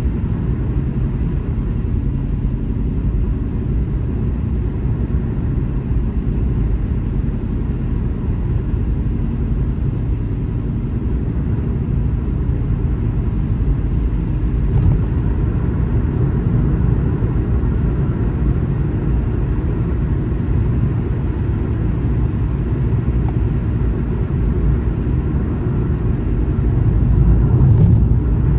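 Steady low rumble of a car driving on a highway, swelling slightly near the end, with a faint click about halfway through.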